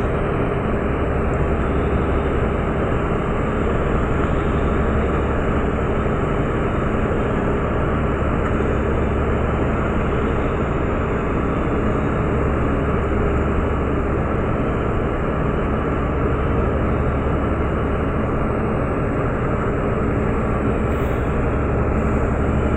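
Meteor hydrofoil's twin M401 V12 diesel engines running steadily at speed, heard on board: a loud, unbroken engine noise with a deep hum underneath.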